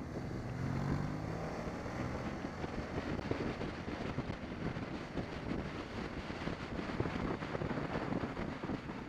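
BMW 650 GS motorcycle riding, its engine running under heavy wind buffeting on the microphone. The engine note stands out most clearly in the first two seconds or so, then sinks into the wind noise.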